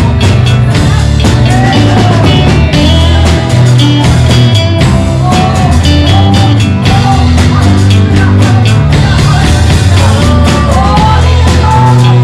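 Live worship band playing loudly and steadily: drum kit and heavy bass under a sliding melody line.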